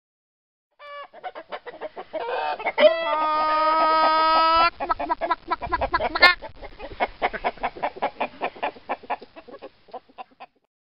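Chicken clucking, then a rooster crowing once in one long held call, followed by a long run of rapid clucks that thins out near the end.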